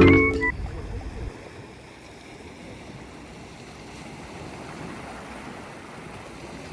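Sea waves washing on a shore: a steady rushing noise that swells a little midway. The last notes of a music track fade out in the first second.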